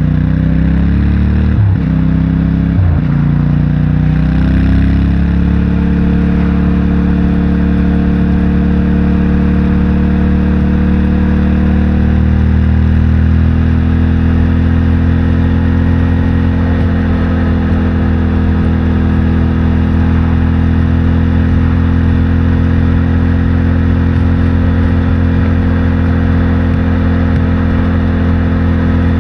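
CFMOTO 450MT motorcycle's parallel-twin engine through its stock exhaust, shifting up twice in quick succession a couple of seconds in. It then pulls up to speed and holds a steady cruise, the revs rising slowly.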